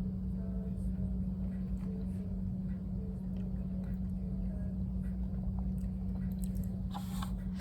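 A person chewing food with faint, soft mouth sounds over a steady low hum.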